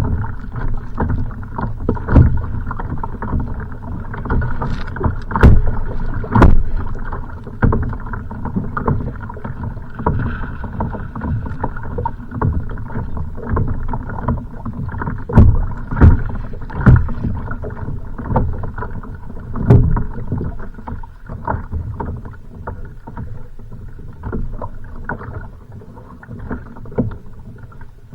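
A kayak on choppy, wind-driven water: waves slap and knock against the hull in a continuous wash, with irregular louder thumps.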